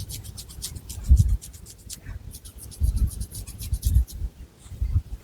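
Long fingernails scratching through thick hair on the scalp in quick, even strokes, roughly ten a second, in two runs with a short pause between, with dull low thumps from hand contact underneath.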